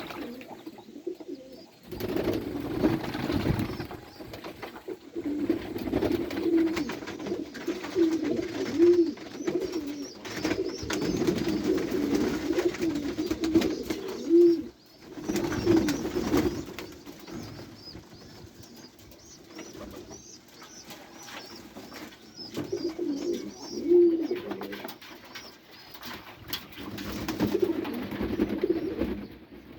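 Domestic pigeons cooing: repeated low, rolling coos from several birds, with short lulls about two seconds in and near the middle.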